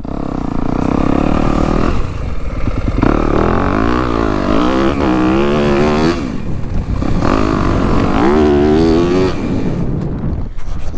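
Four-stroke dirt bike engine running and being revved, its pitch rising and falling in waves through the throttle blips.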